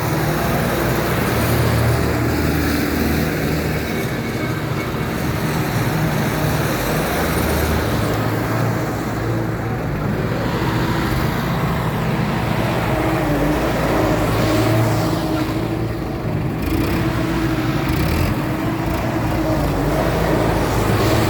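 Diesel tractor engine running, its pitch rising and falling as the engine speed changes.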